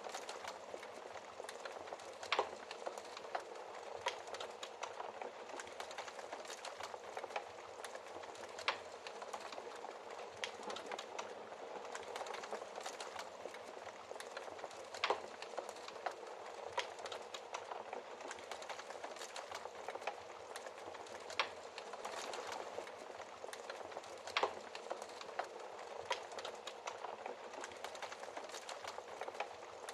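Wood fire burning in a fireplace, crackling steadily, with sharp pops every few seconds.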